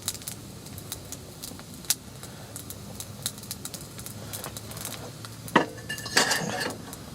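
Metal camp cookware being handled: scattered light clicks, then a sharp knock about five and a half seconds in and a brief ringing clatter of metal just after.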